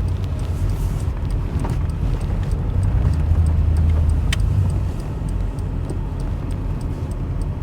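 Low, steady rumble of a truck driving, heard from inside the cab: engine and road noise, swelling a little in the middle.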